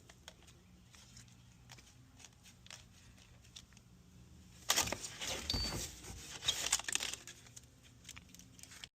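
Faint scattered clicks of handling, then, about halfway through, some three seconds of louder, irregular scraping and rustling.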